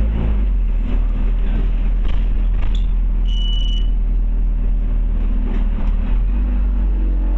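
Scania OmniCity bus heard from inside its cabin, engine running steadily as it drives. A short high beep sounds about three seconds in.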